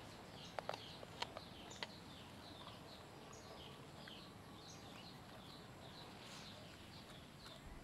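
Faint repeated high chirps of a small bird, each a short falling note, about two a second throughout. A few light clicks sound in the first two seconds.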